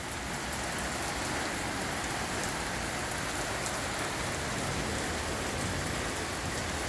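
Heavy rain pouring steadily, an even hiss with scattered drops ticking close by.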